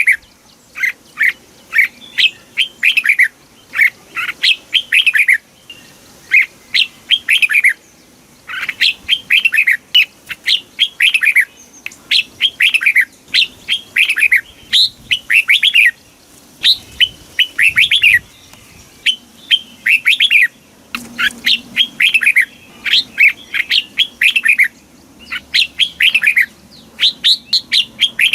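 Red-whiskered bulbul singing: quick phrases of short, clear whistled notes that sweep downward, one phrase after another with brief pauses between.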